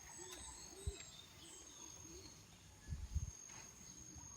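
Faint outdoor nature ambience: a steady high insect drone with scattered bird chirps over it, and a low rising-and-falling call repeating about twice a second. Two dull bumps come about one and three seconds in.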